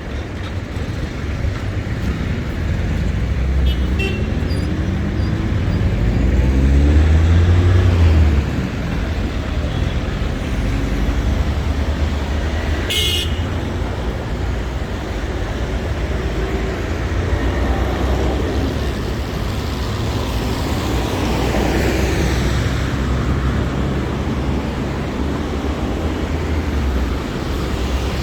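City street traffic: motor vehicles run past with steady engine and road noise, one passing closely and loudly about a quarter of the way in. A short high horn toot sounds near the middle.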